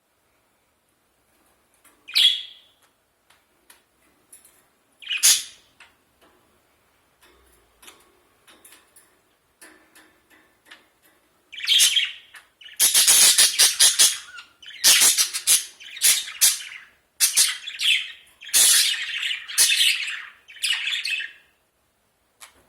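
Budgerigar calling: two short, sharp calls a few seconds apart, faint chirps, then, about halfway through, a long run of fast, loud chattering warble that stops shortly before the end.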